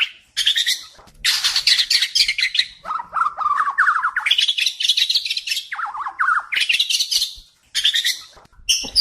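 White-crowned shama (murai batu kepala putih) singing a run of loud, varied song phrases: rapid trills and chattering notes with short pauses between them, and one lower phrase that rises in pitch midway.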